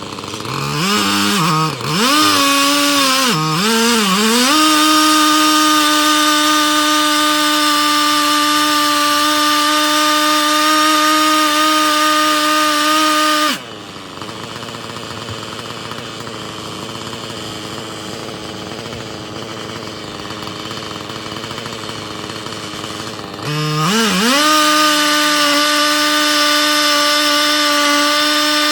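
Husqvarna 3120XP two-stroke chainsaw on a chainsaw mill, revved up with a few dips in pitch and then held at a high steady speed through the oak log. About 14 s in it drops suddenly to idle, and near 24 s it revs back up to full speed and holds there.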